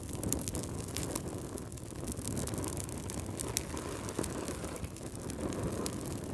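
Fireplace fire crackling, with frequent small sharp pops over a steady low rumble of flame.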